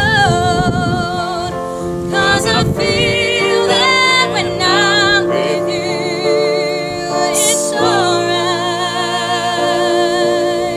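A woman singing a slow song, holding long notes with a wide vibrato over a sustained instrumental accompaniment.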